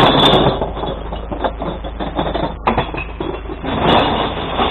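Glass bottles and jars clattering as a recycling crate is tipped into a glass collection truck: a dense run of rapid small knocks, swelling louder again about four seconds in.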